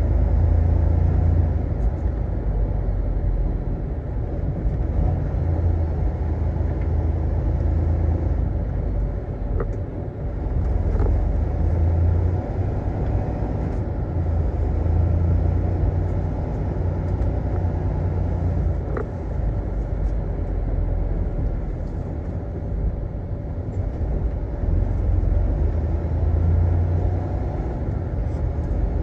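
Semi truck running: a steady low engine and road rumble that swells and eases every few seconds.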